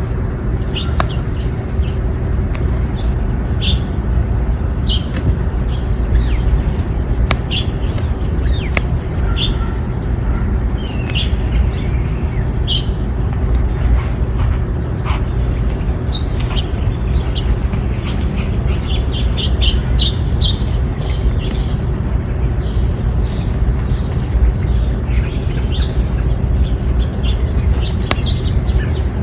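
Small birds chirping: many short, high chirps scattered irregularly, over a steady low rumble.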